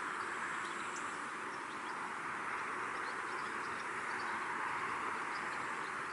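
Steady countryside ambience by a pond: an even hiss with faint, short bird chirps scattered through it.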